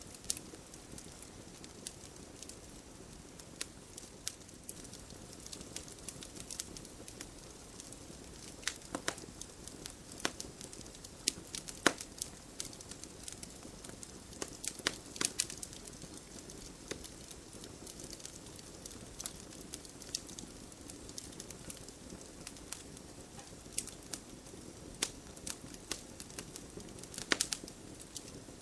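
Backyard wood campfire crackling: irregular sharp pops and snaps over a steady low rush of burning wood, with a few louder pops scattered through.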